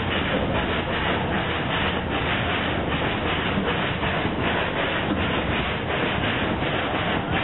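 Narrow-gauge steam train running along the track, a steady rumble with a regular beat of about three to four a second.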